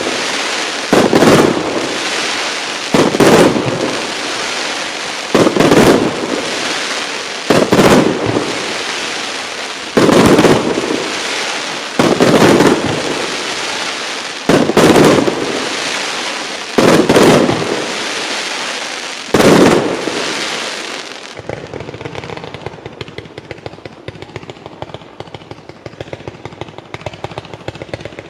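Fireworks display: firework shells burst with loud bangs about every two seconds, each bang trailing off over a second or two. About three-quarters of the way in, the bangs stop and a quieter, rapid run of small crackling pops follows.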